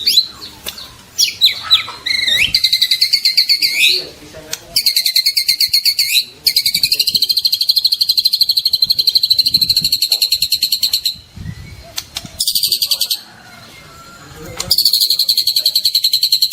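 White-rumped shama (murai batu) singing its trotol song: long runs of rapid, evenly repeated high notes, about five bursts with short breaks between them, the longest lasting over four seconds.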